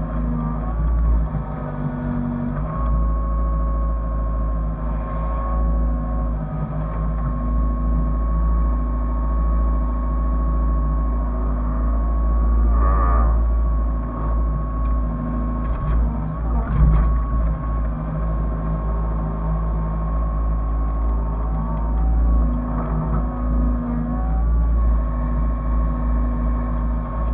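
Hyundai excavator's diesel engine running under load, a low rumble with a steady high whine that shifts slightly in pitch as it works, and a few brief knocks.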